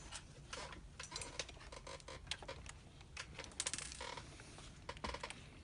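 Faint, irregular light clicks and taps from hand tools and small plastic parts being handled while an attachment is fitted to an RC construction truck.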